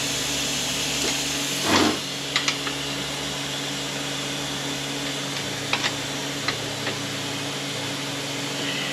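Metal transmission parts being handled on a workbench while the support is pulled from an automatic transmission case: a short scrape about two seconds in, then a few light metal clinks, over a steady mechanical hum from the shop.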